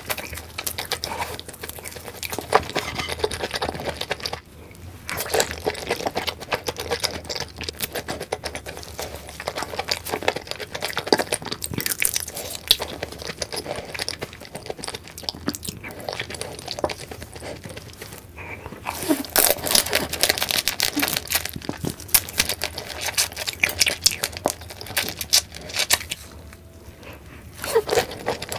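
Close-miked eating: biting and chewing raw red shrimp, a dense run of small clicking and crunching mouth sounds. It pauses briefly about four and eighteen seconds in, and a new bite starts near the end.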